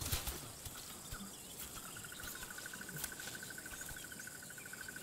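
Insect trilling in the bush: a steady, rapidly pulsing high-pitched trill that starts about two seconds in. It follows a few soft knocks in the first second.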